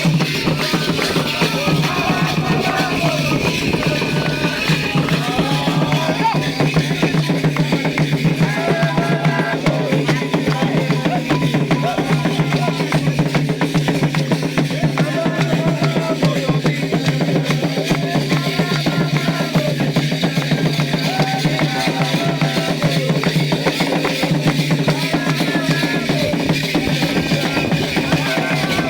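Candomblé ritual music: atabaque hand drums beating a steady, dense rhythm under singing voices.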